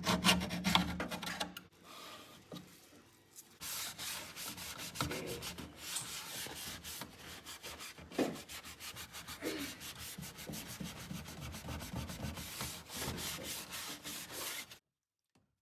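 Hand scrubbing with rapid back-and-forth strokes, scouring grime off toaster oven parts; the steady scrubbing begins a few seconds in and cuts off abruptly near the end.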